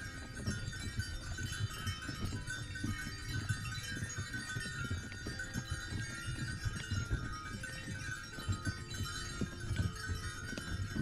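Many small livestock bells of a grazing flock jingling continuously, with a dense, irregular clinking.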